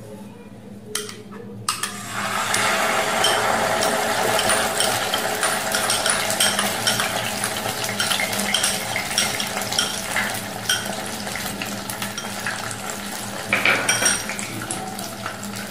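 Onion and cashew paste sizzling and crackling in hot oil and ghee in a non-stick kadai, starting about two seconds in as the paste goes into the pan.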